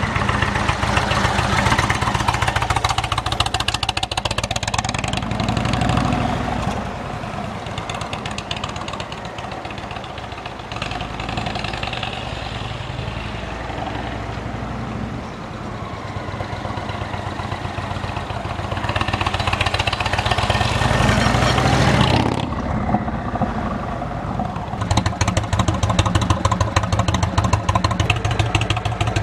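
Indian motorcycle V-twin running through Freedom Performance Shark Tail slip-on mufflers on stock headers. It runs loud at first, settles quieter through the middle, rises in a rev that cuts off sharply about two-thirds of the way through, then runs loud with an even pulsing beat near the end.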